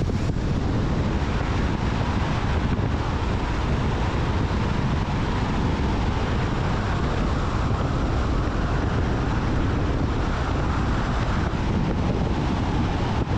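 Steady road and wind noise from a moving car, a constant deep rush without breaks.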